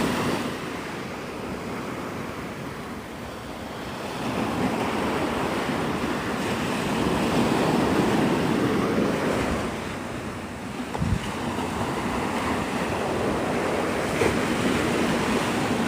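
Gulf of Mexico surf washing onto the beach, the noise of the waves swelling and easing, with wind rushing over the microphone.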